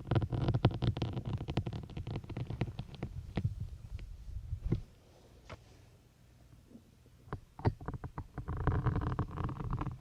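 Syringe needles pushed into a soft sponge, close-miked: a squeaky, crunching 'ppuuk' of the sponge with clicks of the plastic syringes. It comes in two bouts, with a pause of a couple of seconds between them holding only a few single clicks.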